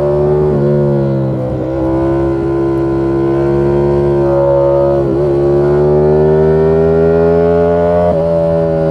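Ducati Panigale V4 S's 1103 cc V4 engine pulling under load, heard from on the bike, its pitch climbing slowly. The pitch dips briefly about five seconds in and again near the end.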